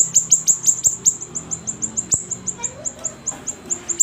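Siri-siri bird singing vigorously: a fast, unbroken string of short, high, downslurred notes, about seven a second.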